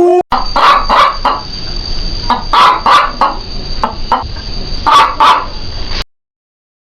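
Chickens clucking: short calls in three quick groups of two or three, over a steady faint high whine.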